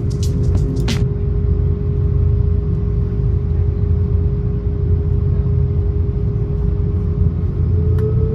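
Airbus A330-300 cabin noise: a steady low rumble with one held engine tone, which steps up slightly in pitch near the end. A few sharp clicks come in the first second.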